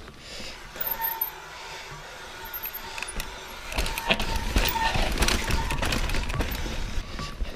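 Mountain bike riding over a rough trail: tyre noise with clicks and rattles from the bike, growing louder about four seconds in.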